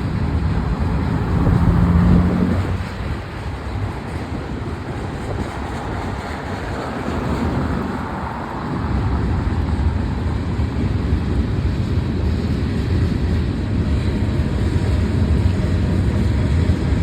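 Freight cars of a long Union Pacific manifest train rolling past: a steady low rumble of steel wheels running on the rails, with a brief steady tone about two seconds in.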